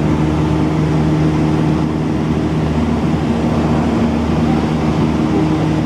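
Cessna 172's piston engine and propeller droning steadily in flight, one unchanging pitch.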